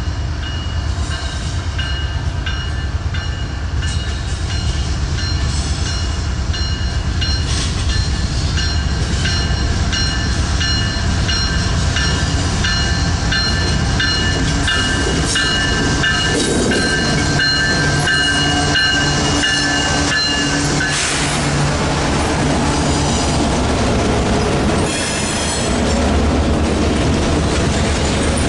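Mixed freight train passing close by: a heavy rumble of rolling cars with wheels clicking over rail joints about once a second. A high, steady squeal from the wheels runs along with it and stops about two-thirds of the way through.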